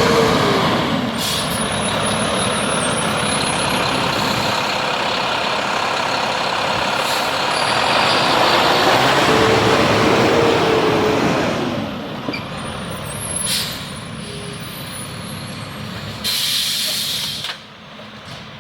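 Garbage truck running loud, its engine revving up and easing back about ten seconds in, then settling lower. Near the end comes a short hiss of released air, typical of a truck's air brakes.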